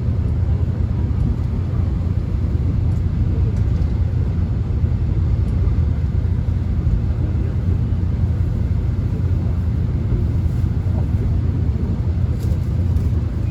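Subway train running, heard from inside the carriage: a steady low rumble of the train in motion, with a few faint high clicks near the end.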